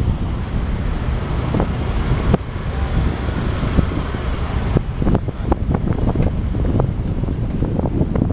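Wind buffeting the microphone over a low harbour rumble, with scattered short knocks that come more often in the second half.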